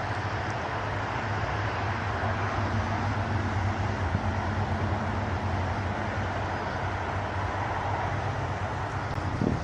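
Steady rumble of motor-vehicle traffic with a low engine hum, swelling slightly in the middle.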